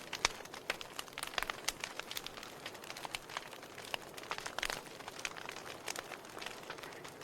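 Wood fire burning in a fireplace: a soft steady hiss under frequent, irregular sharp crackles and pops of burning logs.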